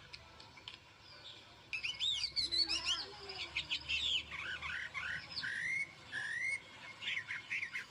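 Birds chirping: many short, quick up-and-down calls, starting about two seconds in and going on steadily.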